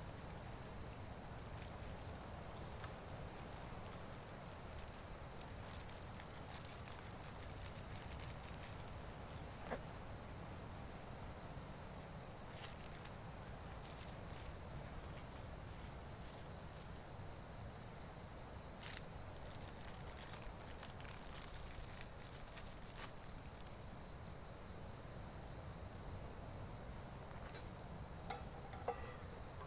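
Steady high-pitched chorus of insects such as crickets trilling in the forest, with a few light clicks now and then.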